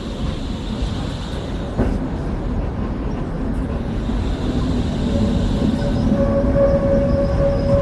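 Vario LF2R.E tram running along the track, slowly getting louder, with a single sharp click about two seconds in. A steady whining tone joins about five seconds in.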